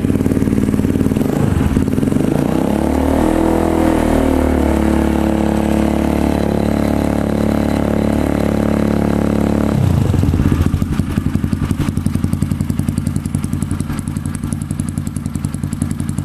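Honda CRF dirt bike engine through a Triton CR-5 aftermarket exhaust: idling, then revved up about a second and a half in and held steady at raised engine speed for several seconds, before dropping back to a pulsing idle about ten seconds in.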